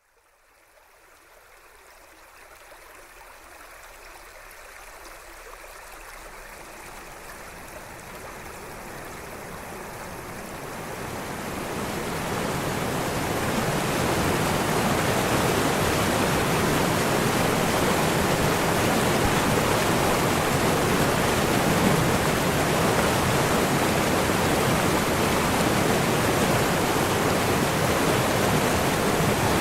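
Steady rushing water, like a stream or waterfall, fading in gradually over the first dozen seconds and then holding at an even level.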